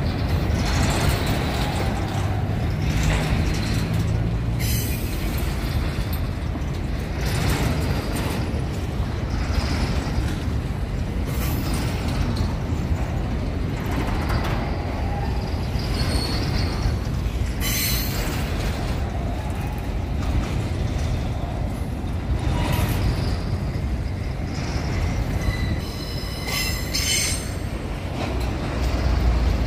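Empty grain hopper wagons of a freight train rolling past, with a steady rumble and rattle of wheels on rail. Brief high-pitched wheel squeals come several times.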